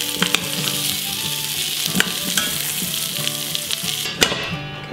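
Carrots sizzling in butter in the hot inner pot of an Instant Pot on sauté, with a few sharp metal clicks of tongs against the pot as they are lifted out. The sizzle drops away suddenly near the end.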